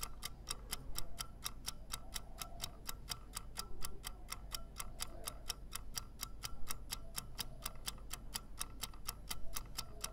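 Wind-up mechanical kitchen timer ticking with a rapid, even tick while it counts down the dough's proofing time.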